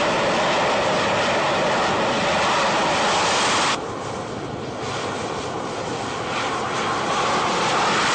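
Jet engine noise: a loud, steady roar that cuts off abruptly about four seconds in, drops to a lower roar, and builds up again near the end.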